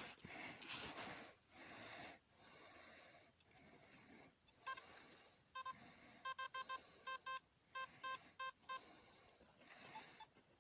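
Faint rubbing at first, then, a few seconds in, a quick irregular string of about fifteen short electronic beeps on one mid-high tone: a metal detector's target-response beeps.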